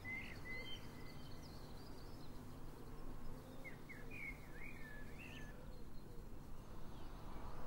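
Small birds chirping in short bursts, a cluster at the start and another about halfway through, over a steady low background rumble.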